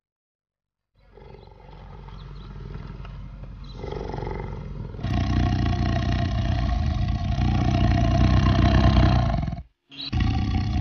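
A large animal's long, rumbling roar that swells over a few seconds, holds loud and cuts off abruptly, then a shorter second roar near the end.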